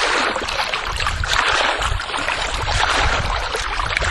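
Water running steadily: a continuous hiss with some low rumble underneath.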